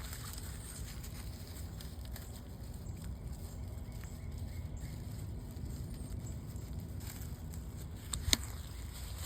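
Low steady outdoor rumble, with a single sharp click about eight seconds in.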